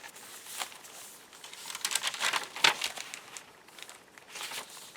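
Paper rustling and crinkling as the pages and cards of a handmade paper journal are handled and turned: a series of short rustles, bunched together and loudest a little past the middle.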